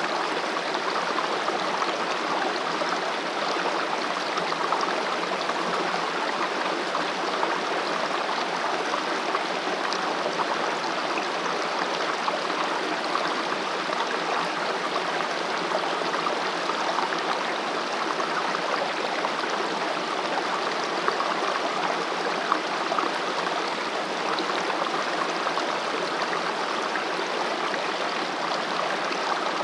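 A valley stream running steadily, an even rush of water with no breaks.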